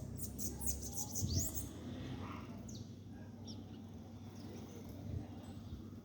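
Small birds chirping: a quick run of high chirps in the first second or two, then a few scattered single chirps.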